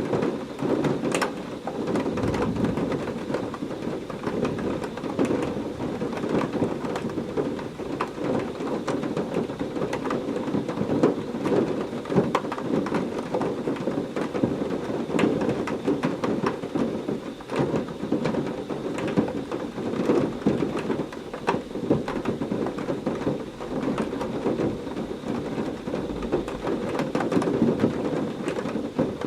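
Heavy rain falling steadily, a dense patter of countless individual drops striking a surface, with a low rumble of thunder in a thunderstorm.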